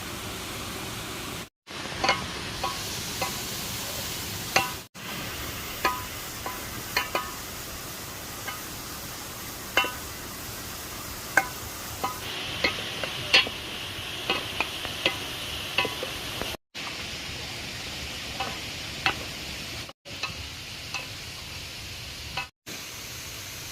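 A utensil knocking and clinking against a cooking pot as food is stirred: irregular sharp clicks, a few each second at times, over the steady rush of a waterfall. Several brief silent gaps break the sound.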